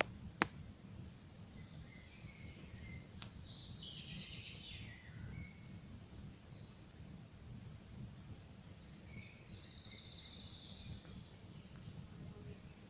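Campfire crackling low and steady, with two sharp pops, one near the start and one about three seconds in. Songbirds chirp repeatedly over it, with two longer trilling songs, one about four seconds in and one near ten seconds.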